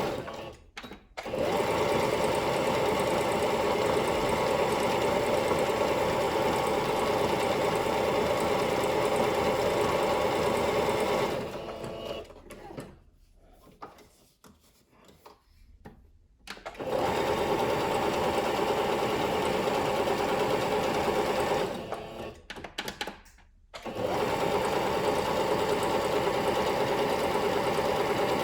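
Singer Curvy sewing machine running at a steady speed. It stops briefly about a second in, for several seconds in the middle, and again for a couple of seconds near the end.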